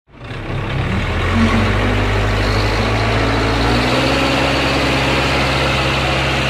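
A vehicle engine running steadily, its low note shifting about four seconds in.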